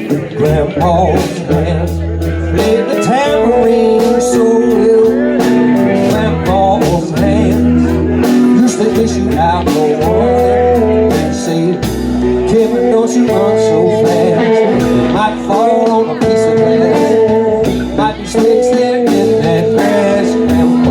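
Live band playing a bluesy, guitar-led instrumental passage over a pulsing bass line.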